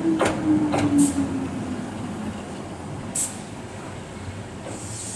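Electric train slowing into a station: a motor whine falls steadily in pitch over the first two seconds over a steady rolling rumble, with a few sharp clicks. A high air hiss starts near the end.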